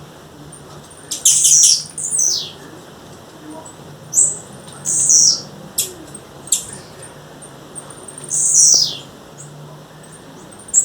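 Blue-black grassquit (tiziu) calling: short, high-pitched chips and quick falling sweeps, one every second or so, with a few tight clusters of notes.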